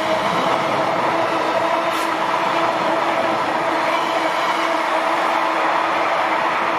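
A train passing at close range: a steady, loud rush of wheels on rail, with one short click about two seconds in.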